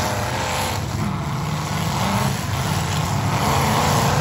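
Engines of demolition derby cars running together in a steady, loud rumble.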